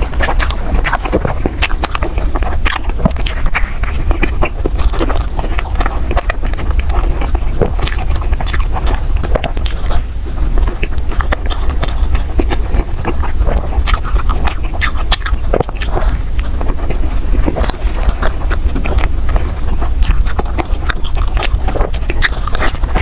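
Close-miked biting and chewing of desserts, with many small sharp clicks all through, over a steady low hum.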